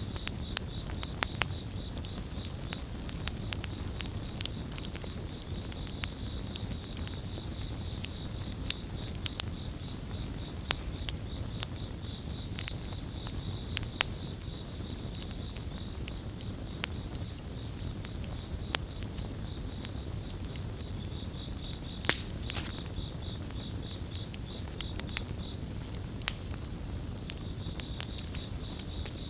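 Wood campfire crackling and popping over a low rumble of flames, with one louder pop about two-thirds of the way through. Crickets chirp in a fast pulsing trill at the start, fade, then return in the last third.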